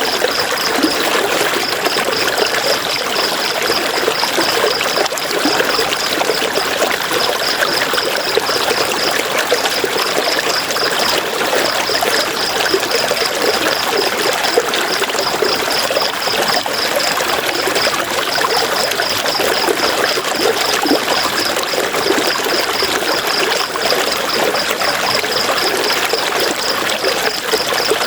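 River water flowing and trickling in a steady, full rush. Over it, a high-pitched, rapidly pulsing call repeats in runs of a second or two.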